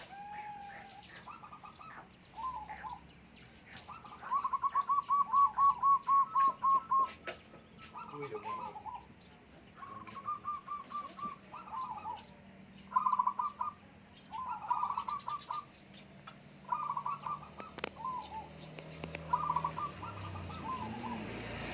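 Caged zebra doves (perkutut) cooing in short bursts of quick staccato notes, calls following one another, with one run of about a dozen rapid notes around five seconds in.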